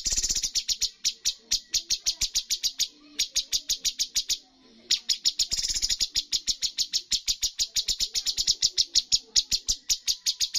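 Cucak cungkok songbird singing its rapid 'tembakan' phrases: long runs of sharp, evenly repeated notes at about eight a second. The runs break off briefly twice.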